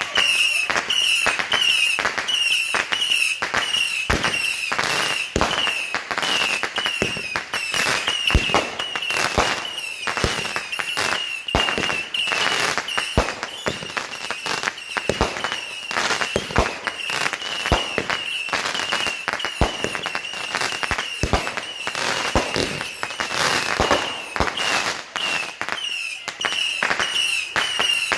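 Fireworks going off nonstop: a dense run of sharp cracking reports with no pause. A short whistling chirp repeats about twice a second throughout.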